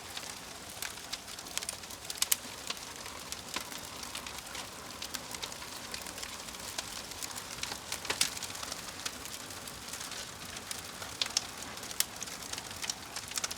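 Wood fire crackling: a steady hiss with frequent small pops and a few louder snaps, about two, eight and twelve seconds in.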